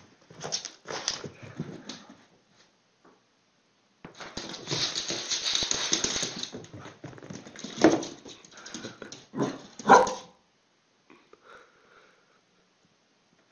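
Dog reacting to a lemon wedge held up to it: a couple of seconds of noisy scuffling as it darts about, then a few sharp barks, the loudest about ten seconds in.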